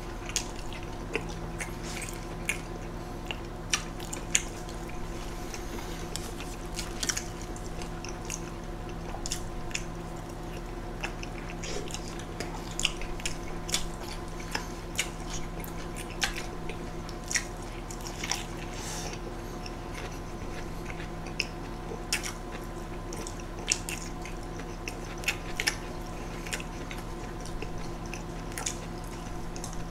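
Close-miked mouth sounds of people eating big burgers: irregular wet clicks and smacks of chewing and biting, a few a second, with no talk. A faint steady electrical hum lies underneath.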